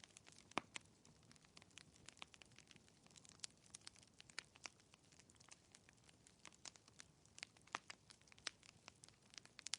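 Logs burning in a fireplace, crackling: irregular sharp pops and snaps over a faint hiss, with one louder pop about half a second in.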